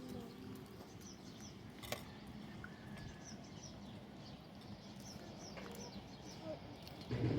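A bird chirping over and over in short, high chirps against a steady background hiss. A sharp click about two seconds in.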